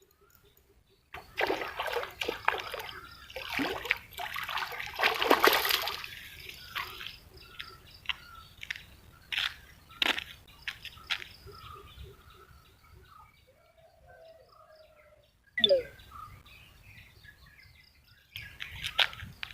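Water splashing and sloshing in bursts, loudest in the first few seconds after a second of silence, then smaller scattered splashes, with birds chirping.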